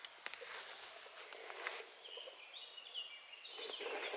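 Faint outdoor ambience: a steady high insect trill, with a few short chirps about two to three and a half seconds in and light scattered clicks and rustles.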